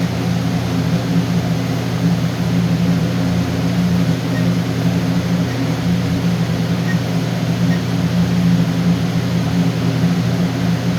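Steady low mechanical hum, like ventilation or machinery running, with a few faint short beeps from alarm keypad key presses partway through.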